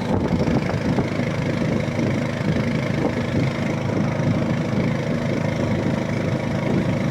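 A boat's motor running steadily as the boat cruises along the river.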